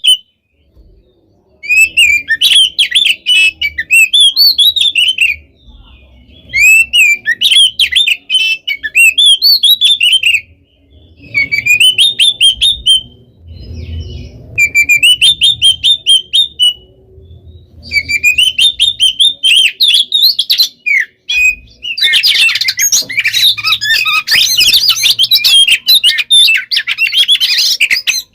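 Oriental magpie-robin (kacer) singing loudly: fast phrases of sharp chirps and whistled trills, a few seconds each with short pauses between, running together into one unbroken, dense stream of song for the last six seconds.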